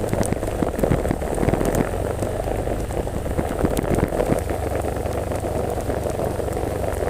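Heavy rain falling steadily, a dense patter of many small drop impacts.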